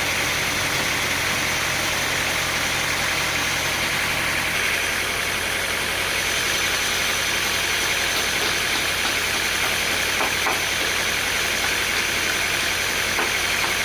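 Sawmill machinery running steadily, an engine-like drone with a hiss. The low hum shifts about a third of the way in, and a few faint knocks come near the end.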